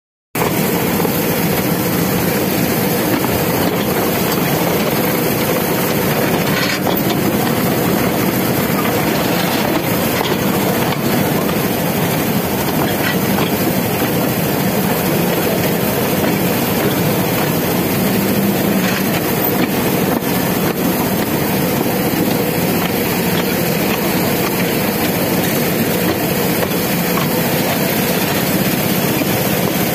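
Narrow-gauge toy train running along the track, heard from on board as a loud, steady running noise with no letup.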